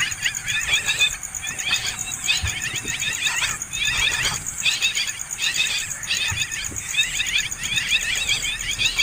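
Several hungry nestling birds begging with rapid, high, rising chirps that overlap in a near-continuous chorus, broken by a few brief pauses.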